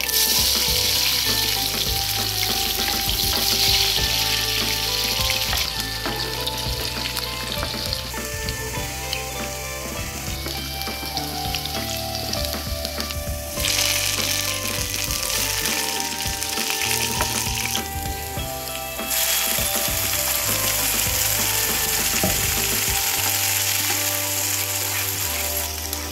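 Sliced onions hitting hot oil in a kadai and frying with a loud sizzle, stirred with a wooden spatula. The sizzle flares up again about 14 s in as curry leaves go into the oil, and once more about 19 s in as more is added to the pan.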